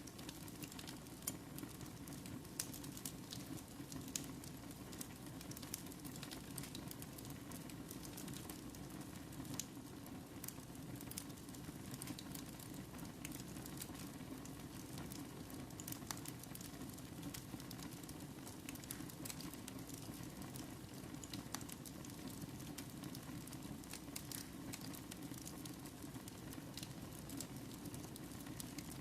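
Wood fire burning in a fireplace: a steady low hiss and rumble with frequent small sharp crackles and pops scattered throughout.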